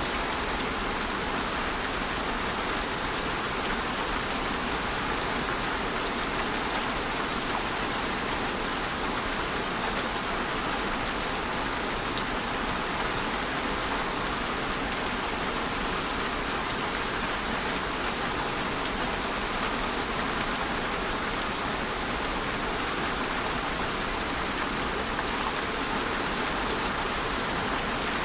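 Steady rainfall, a continuous even hiss with scattered faint drop ticks.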